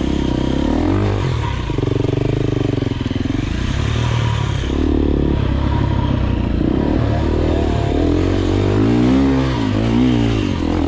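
Enduro dirt bike engine revving, its pitch rising and falling again and again as the throttle is worked over rough ground, with quicker up-and-down swings near the end.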